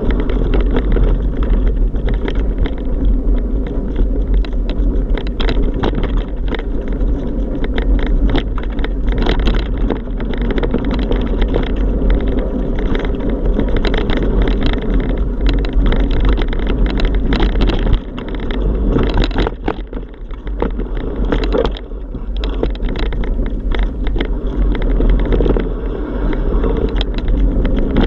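Ride noise from a camera on a moving bike: heavy wind buffeting and road rumble on the microphone, with frequent rattling knocks from bumps. It eases briefly about two-thirds of the way in.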